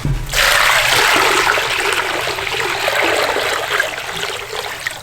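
Water pouring and splashing in a steady rush that starts suddenly and slowly tapers off near the end.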